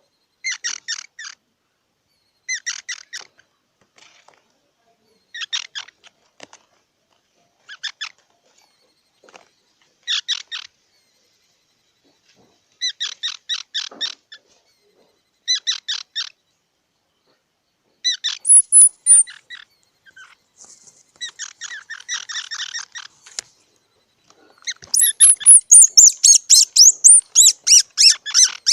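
Squirrel calling: short bursts of rapid chattering trills, repeated every two to three seconds, turning into a louder, unbroken run of high chirps near the end.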